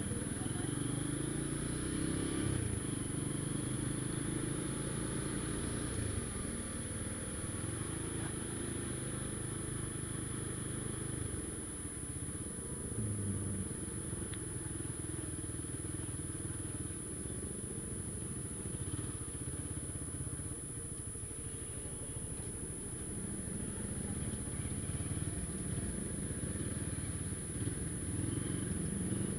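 Honda Tiger's single-cylinder engine running steadily at low revs as the motorcycle creeps through slow, crowded traffic.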